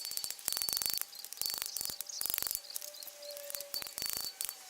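Insects chirping in short trains of rapid, high-pitched clicks, with several bursts of about half a second each.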